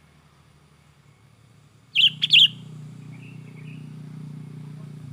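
Sooty-headed bulbul calling: two loud, sharp notes about two seconds in, followed by softer notes, with a low steady hum underneath.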